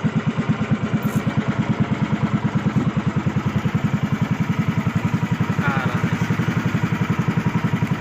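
Fishing boat's engine running steadily with a fast, even chug, about ten beats a second.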